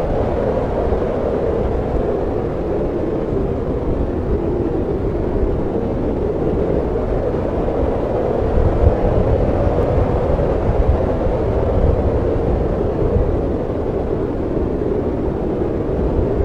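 Snowstorm wind blowing in a steady, low rush, swelling a little about halfway through.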